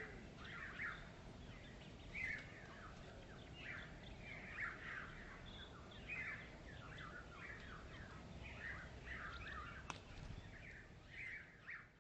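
Small birds chirping and twittering, a busy series of short, high chirps over faint steady background noise, with one sharp click about ten seconds in.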